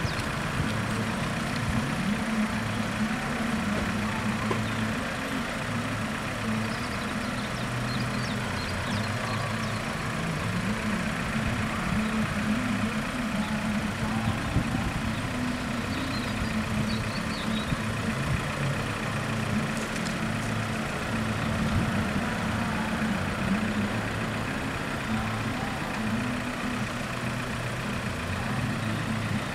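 Car engines idling at a steady low hum, with no train passing.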